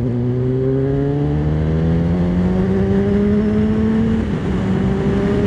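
Honda CBR900RR Fireblade's 929 cc inline-four engine accelerating through a Racefit titanium exhaust. The pitch climbs steadily through one gear, drops with an upshift about four seconds in, then starts climbing again.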